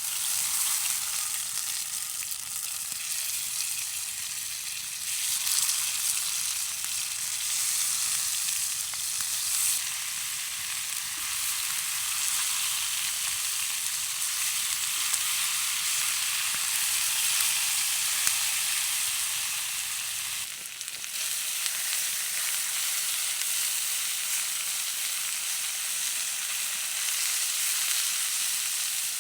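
Chicken wings sizzling steadily as they fry in hot fat over a campfire, with a brief dip about two-thirds of the way through.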